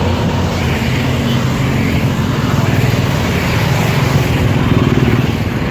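Motorcycle engine running at road speed under heavy wind rush on the microphone; it gets a little louder about four to five seconds in, then eases off.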